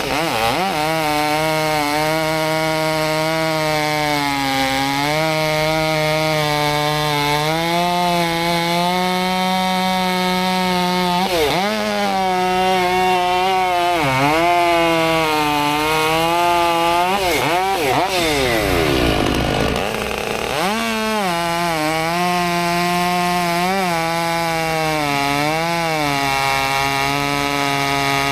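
Stihl MS 500i fuel-injected two-stroke chainsaw running at high revs and cutting through firewood. Its pitch dips each time the chain bites under load, and drops right down and comes back up about two-thirds of the way through.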